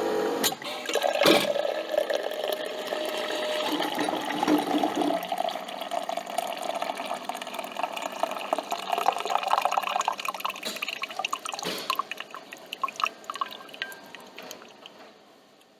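Coffee machine trickling and dripping liquid after its pump stops, with a click or two near the start; the trickle slowly fades out over the last few seconds.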